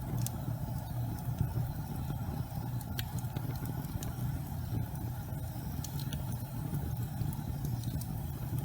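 Gas fireplace burning with a steady low rumble of flame and a few faint, scattered crackling clicks.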